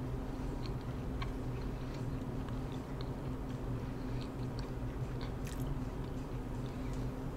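Close-miked chewing of a bite of pan pizza: soft, wet mouth clicks and smacks scattered through, over a steady low hum.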